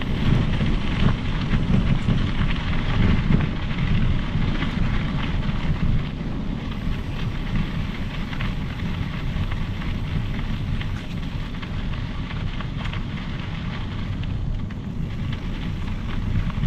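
Riding noise from a Specialized Epic Pro mountain bike on a trail: wind buffeting the microphone over a steady rumble of tyres on the trail surface, with many small crackles and rattles throughout. The noise eases slightly after about six seconds.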